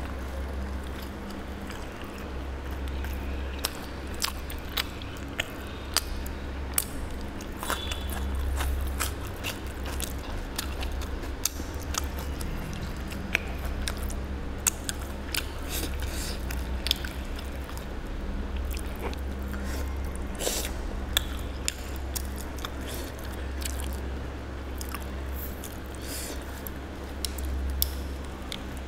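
Close-up chewing and lip-smacking of a person eating mutton curry and puri by hand, with frequent short, sharp wet mouth clicks. A steady low hum runs underneath.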